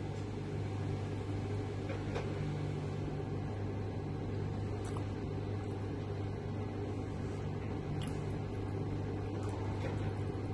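Steady low hum inside a tower crane cab, with a few faint ticks.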